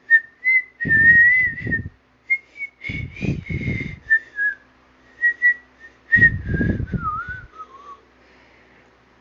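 A person whistling a wandering, high tune in short phrases, sliding lower near the end, with puffs of breath rumbling on the microphone three times.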